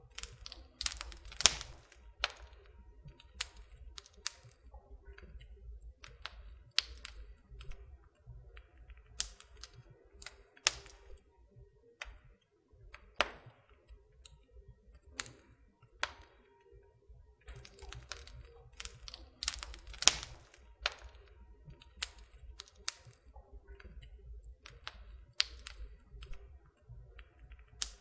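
Wood fire crackling in a fireplace: irregular sharp pops and snaps over a low rumble of flame, with the loudest pops about a second and a half in and about twenty seconds in.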